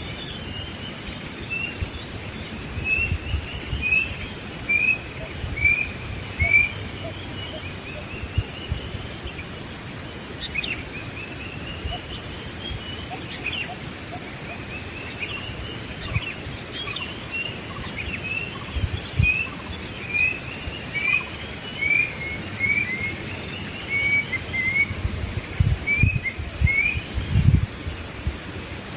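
Wild birds calling: a long series of short rising chirps, about one or two a second, over a faint steady high insect drone. Occasional low thumps, strongest near the end.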